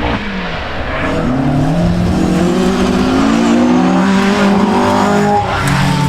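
Rally car engine accelerating hard, its pitch rising steadily for about four seconds, then dropping sharply just after five seconds in, with a few sharp cracks near the end.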